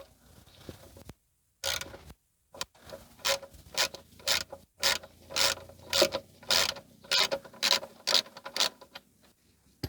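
A 14 mm ratchet wrench clicking through a long run of short strokes, about two or three a second, as it unscrews an engine oil drain plug.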